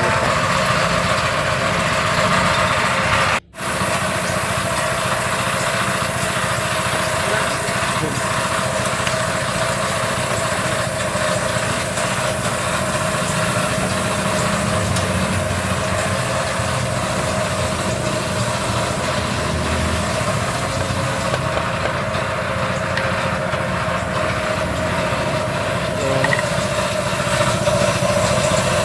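A small engine running steadily in the background, with a steady hum over a noisy haze. The sound drops out for a moment about three and a half seconds in.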